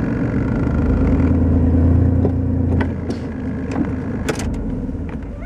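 Chevy 4x4 pickup truck running, heard from inside the cab: a deep drone swells about half a second in and drops off near three seconds, with a few sharp clicks later. The owner links this sound to the alternator going insane, part of the truck's electrical stutter under load.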